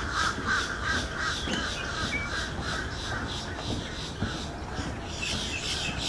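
Wild birds calling: a higher call repeats several times a second over a lower, rippling call that fades after the first half.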